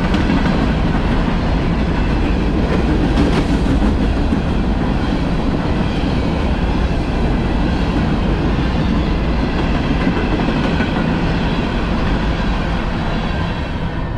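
CSX freight train's cars rolling past: a loud, steady noise of steel wheels on rail, with a few sharp knocks about three seconds in and a slight easing near the end.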